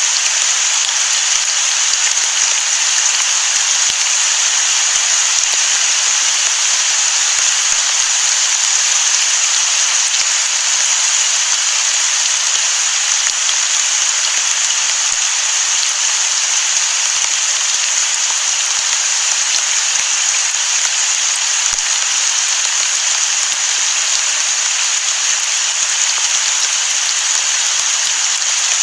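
Steady heavy rain: a dense, even hiss of falling drops with no thunder.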